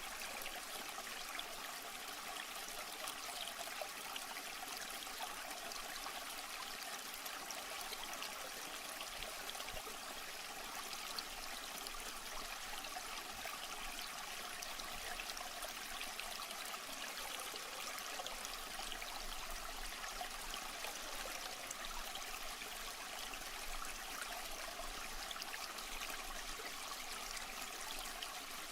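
Water trickling steadily, a continuous splashing babble with no pauses.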